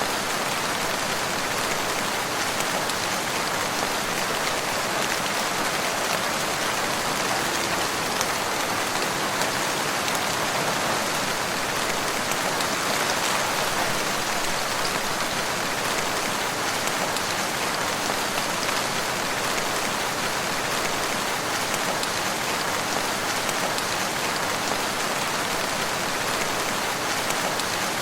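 Steady rain falling on woodland, an even hiss of many drops without thunder.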